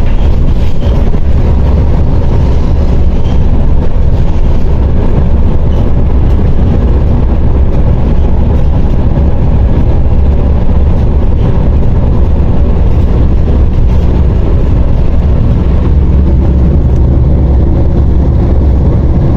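MAZ 104.021 city bus's diesel engine running, with road noise, heard from inside the cabin as a loud, steady low drone that hardly changes.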